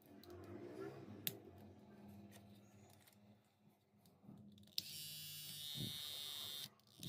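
Philips battery-powered trimmer switched on with a click, its motor and cutter running with a steady high buzz for about two seconds, then switched off and on again at the very end. It is the trimmer running on its freshly replaced battery, with handling noises before it starts.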